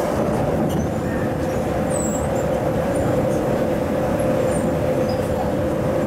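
MTR East Rail line MLR electric train running: a steady rumble with a constant hum at one pitch.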